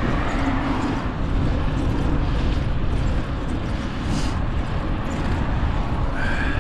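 Wind rushing over the microphone of a rider cycling along a road: a steady, rumbling noise.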